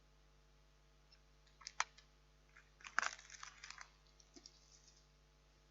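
Plastic film lid being peeled off a microwave meal tray: faint crinkling and crackling, with a couple of sharp clicks a little under two seconds in and a cluster of crackles about three seconds in.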